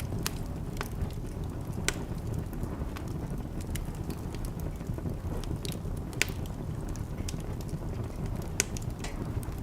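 A wood fire burning in a fireplace: a steady low rumble of flames with irregular crackling and a few sharper pops of the burning logs.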